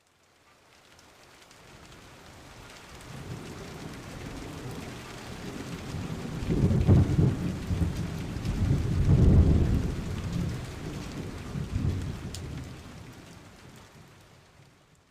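Rain falling with rolling thunder: two heavy rumbles, about seven and nine seconds in, the second the loudest. The whole sound fades in from silence and fades back out.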